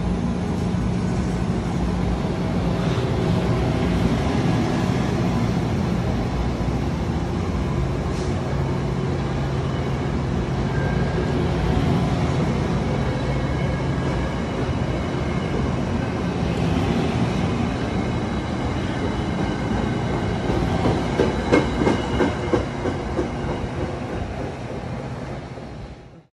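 Virginia Railway Express commuter train of stainless-steel bilevel passenger cars rolling past close by, a steady rumble of wheels on rail over a low hum. Late on comes a run of louder clacks as the wheels cross rail joints.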